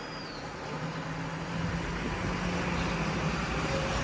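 A truck approaching on the street, its engine drone and tyre noise growing steadily louder as it comes closer.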